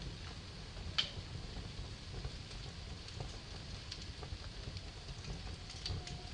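Wood fire crackling in a fireplace: a steady low rumble of burning with scattered sharp pops, the loudest about a second in.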